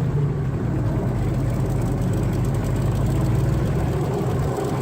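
Airboat engine and propeller running steadily with a low, even drone.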